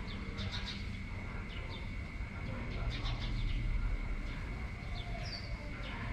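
Steady rain and wind with a low rumble, probably wind on the microphone, and a steady thin high tone. Birds chirp several times over it in short, falling calls.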